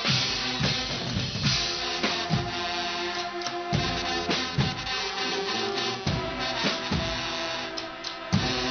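Guggenmusik carnival band playing: pounding bass and snare drums with brass holding loud chords over them.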